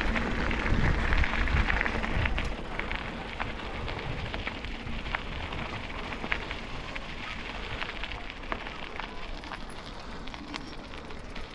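Steady crackling noise with many scattered sharp clicks, with a heavier low rumble of wind on the microphone in the first couple of seconds.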